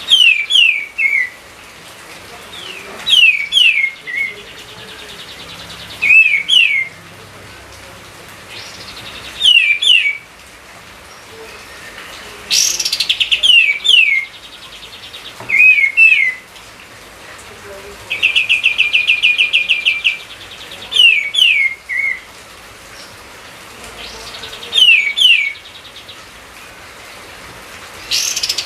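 Songbird calling: groups of two or three quick whistles, each falling in pitch, repeated about every three seconds. A fast rattling trill comes in a little past the middle, over a faint steady hiss.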